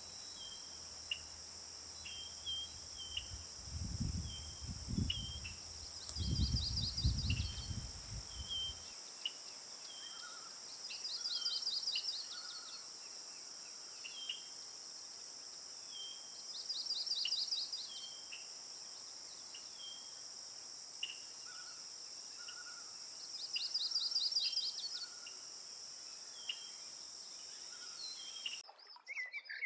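Steady high-pitched drone of insects such as crickets, with short chirps about once a second and a trilled bird phrase of about a second that repeats every five to six seconds. Low rumbles come in the first several seconds, and the insect drone cuts off suddenly just before the end.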